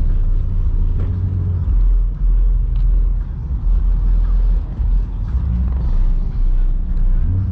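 Low, uneven rumble of car engines as cars pull out.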